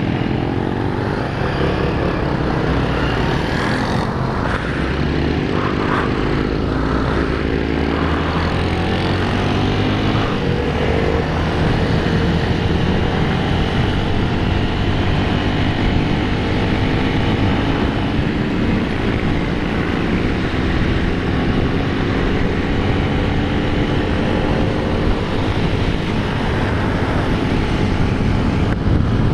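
Honda CB 250F Twister's single-cylinder engine running on the move, its pitch climbing and dropping several times as it accelerates through the gears in the first ten seconds or so, then holding a steadier speed. Heavy wind noise on the microphone runs under it.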